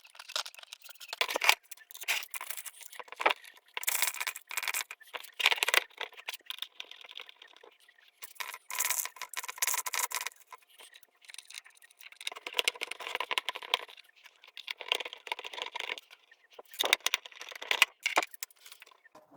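Irregular rattling, clicking and scraping of small hard parts and tools being handled and fitted by hand.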